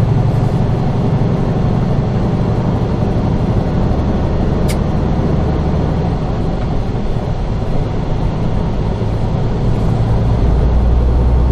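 Semi-truck's diesel engine running steadily with road noise, heard from inside the cab. A brief high tick about five seconds in.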